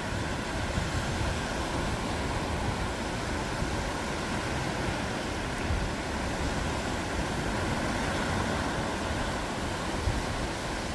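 Ocean surf breaking on a beach: a steady wash of waves with no distinct lulls.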